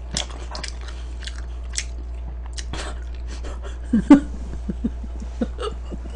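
Close-miked chewing and crunching of food, with many short sharp mouth clicks and smacks and a louder cluster about four seconds in. A steady low hum runs under it.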